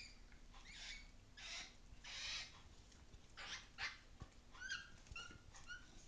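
Faint animal sounds: a few short, breathy bursts, then about five short, squeaky calls in quick succession.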